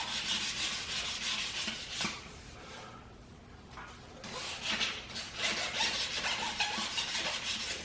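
Sandpaper rubbed by hand in quick back-and-forth strokes over spot putty on a curb-rashed aluminum wheel, shaping the filler smooth. The sanding eases off for about two seconds partway through, then picks up again.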